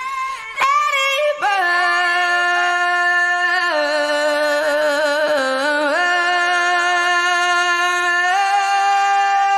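Isolated female lead vocal singing long wordless held notes with no backing instruments, stepping between a few pitches in the first half, then holding one note for several seconds.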